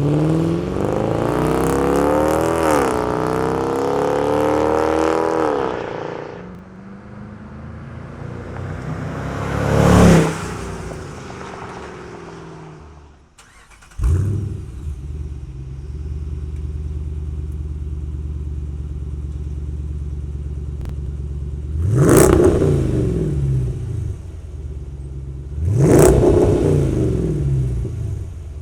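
Jeep Grand Cherokee 5.7L V8 through an MRT King of the Hill stainless cat-back exhaust: accelerating with rising pitch and a gear change, then a brief loud pass-by. The engine then starts up, settles into a steady deep idle, and is revved sharply twice, a few seconds apart.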